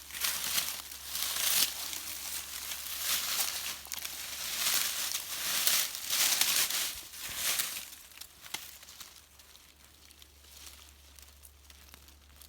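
Dry leaves and undergrowth rustling and crunching in repeated bursts as someone moves through and handles them, dying down after about eight seconds.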